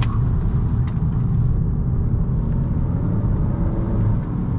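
A 2018 Honda Accord's turbocharged 1.5-litre four-cylinder engine and tyres running on the road: a steady low rumble, with the engine note shifting slightly near the end.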